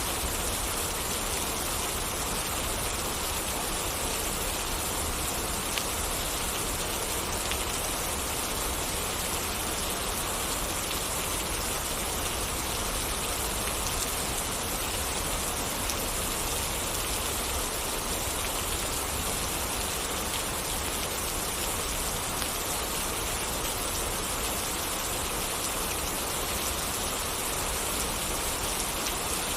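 Steady rain falling: an even, unbroken hiss of drops, with a few faint single ticks here and there.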